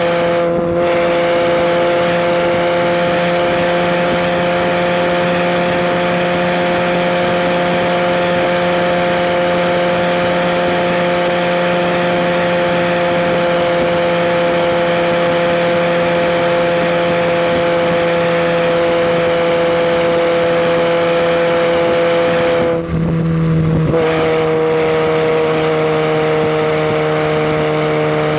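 Fiat barchetta's four-cylinder engine running hard at a steady, high pitch, heard from inside the open cockpit with wind rushing past. About 23 seconds in, the engine note drops away for about a second, then picks up again a little lower.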